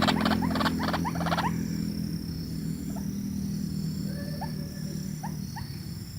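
White-breasted waterhen calling: a quick burst of harsh, rapidly repeated notes that stops about a second and a half in, followed by a few faint short notes. A low steady hum and thin high bird tones run underneath.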